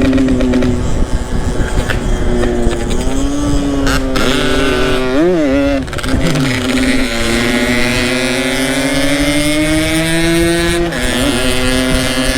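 Yamaha RX-King two-stroke single-cylinder motorcycle engine running on the move. It holds a steady pitch, gives a quick rev about five seconds in, then climbs slowly in pitch as it accelerates and drops at a gear change near the end.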